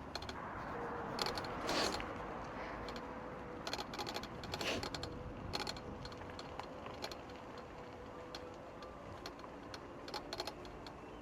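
Lime rental electric bike rattling and clicking in quick irregular runs as it rides over rough ground, over a faint steady whine.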